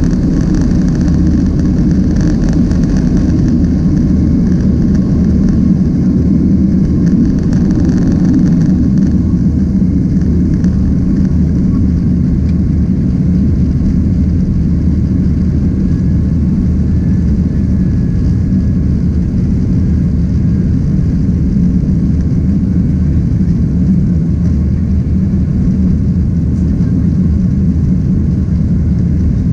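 Boeing 767-300ER's jet engines during takeoff: a loud, steady low rumble. A higher hiss over it fades about nine seconds in.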